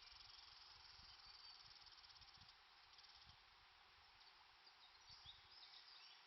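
Faint lakeshore wildlife ambience. A fast, high, buzzing trill runs for the first half and stops about halfway through, then short high chirps come in near the end, over faint low rumbles.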